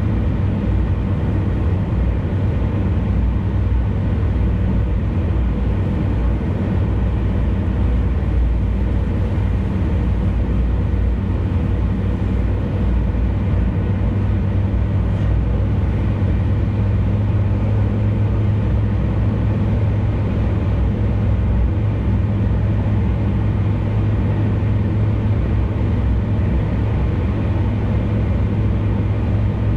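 Steady low road and engine rumble of a car cruising on an expressway, unchanging throughout.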